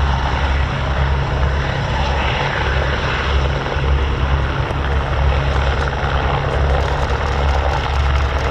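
Airbus Helicopters H125 single-turbine helicopter running close by, a steady loud rotor and turbine roar that is strongest in the low end.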